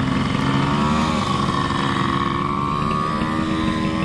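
Honda Dio scooter engine running while riding, its pitch rising over the first second or so as it speeds up, then holding steady.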